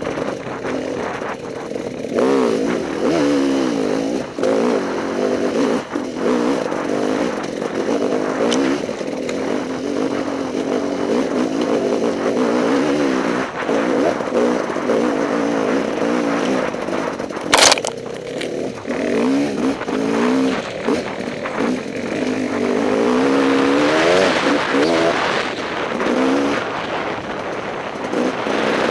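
Enduro motorcycle engine heard close up from on board, its revs rising and falling over and over as it rides. A single sharp knock sounds about two-thirds of the way through.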